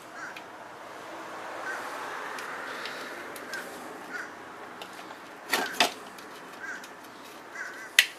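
Sharp metallic clicks and taps from hand-threading the top fender bolt on a 1981 Honda CM400A motorcycle. A pair of louder clicks comes a little past halfway and one sharp click near the end, over short squeaks that recur about once a second.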